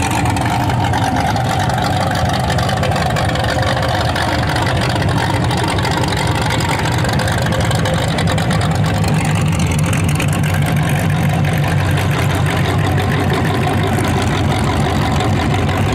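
Demolition derby cars' engines running steadily, a low engine note that holds even throughout.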